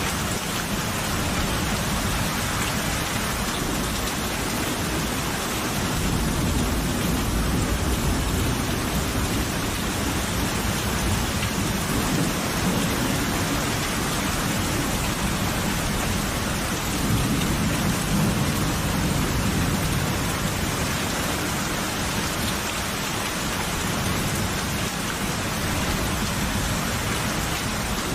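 Steady heavy rain falling, with low rolls of thunder swelling twice, about six seconds in and again around seventeen seconds.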